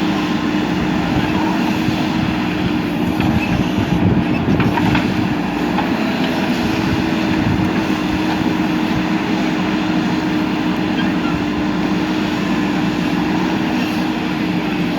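JCB 3DX backhoe loader's diesel engine running steadily under working load, with a steady droning hum. It grows briefly louder about four seconds in.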